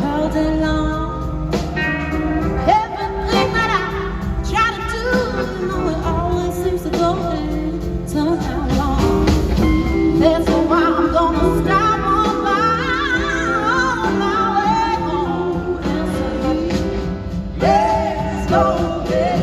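Live blues-soul band playing a passage between sung verses, with a gliding, wavering lead melody line over a steady bass and drum groove.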